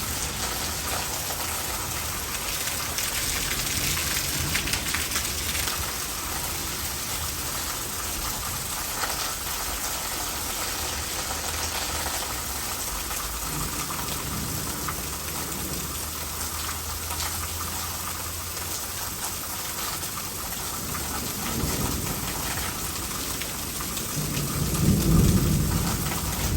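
Heavy rain falling steadily and running into a gutter. Thunder rumbles low near the end, building as it goes.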